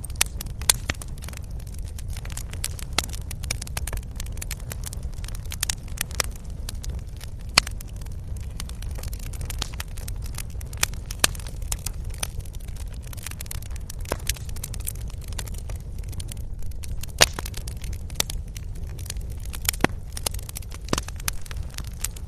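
Wood bonfire crackling, with irregular sharp pops and snaps, several a second and now and then a louder one, over a steady low rumble.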